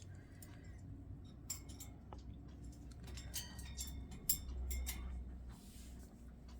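Faint, irregular light clicks and taps, bunched together in the middle and with one louder knock, over a low steady hum.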